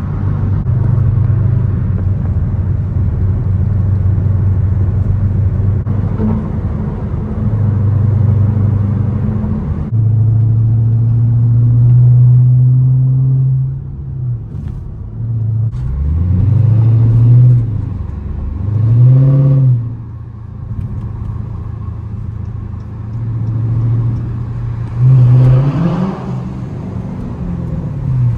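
Chrysler 300S's Hemi V8 and road noise heard from inside the cabin while driving, a steady low drone. In the second half the engine revs up and back down three times.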